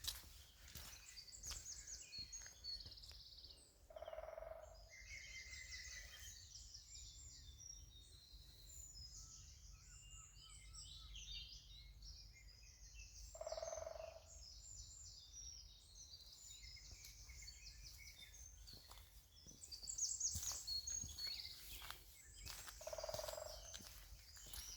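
Woodland birdsong, robins among the singers, with a woodpecker drumming three short rolls about ten seconds apart.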